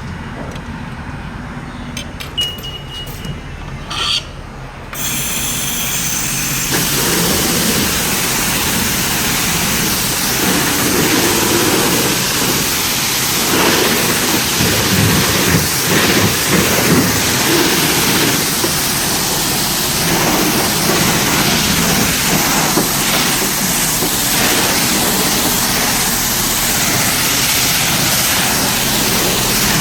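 Self-service car wash pressure wand spraying high-pressure soap: a loud, steady hiss of the spray hitting the car that starts about five seconds in, after a few clicks and a short beep.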